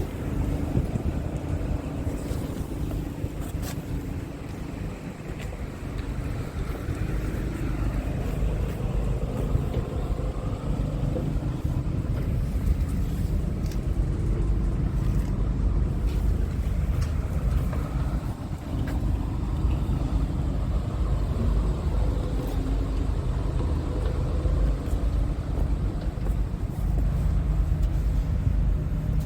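Scania R460 tractor unit's six-cylinder diesel engine running with a steady low rumble. It grows louder about seven seconds in and dips briefly before rising again near two-thirds of the way through.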